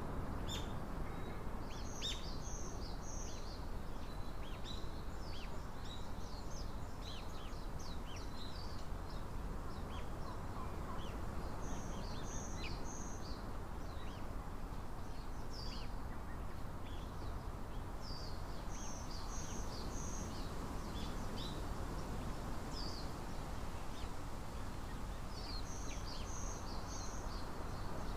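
Small songbirds chirping, with a short three-note call repeating about every seven seconds, over a steady outdoor background noise.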